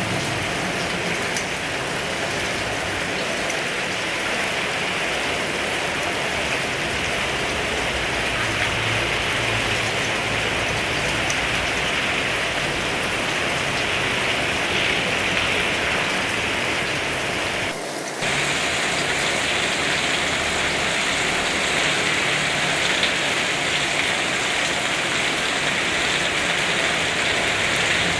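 Heavy rain falling steadily, a dense even hiss of rain on surfaces, with a brief dip in level about two-thirds of the way through.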